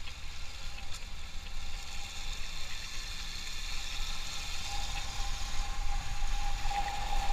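Motorcycle engine running, a steady low rumble, with a steady whine coming in about five seconds in.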